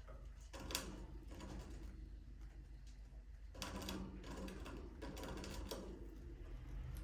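Budgerigars in an aviary making short bursts of clicky, rasping chatter, three times, over a steady low hum.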